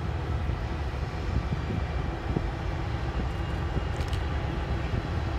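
Freight train passing with a steady low rumble, and a brief sharp click about four seconds in.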